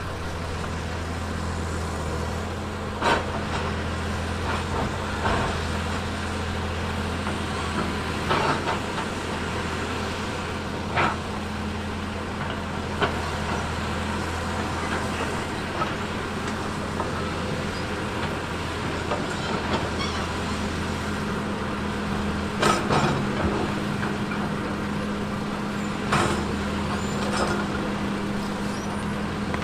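Heavy earthmoving machine's diesel engine running steadily, with sharp clanks and knocks at irregular intervals every few seconds; a cluster of the loudest knocks comes about two-thirds of the way through.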